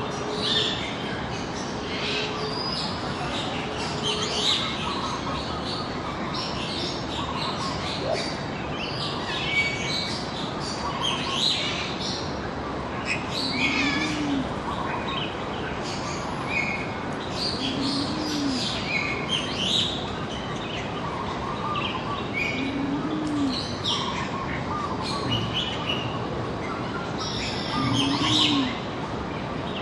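Several birds chirping and calling together, many short high notes overlapping. From about halfway through, a low arching note repeats about every four to five seconds.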